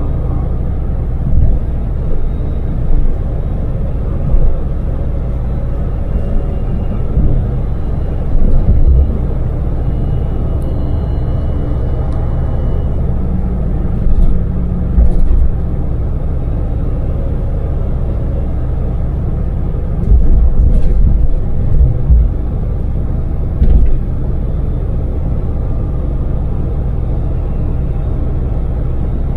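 Daewoo Damas LPG mini van at expressway speed, heard from inside the cabin: a steady engine and road drone with a low rumble. Every few seconds there are short, louder low thuds.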